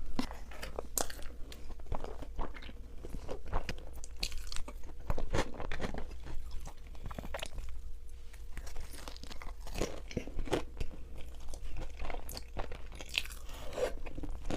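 Close-miked eating: crunchy bites and chewing of food, with sharp crunches coming every second or so.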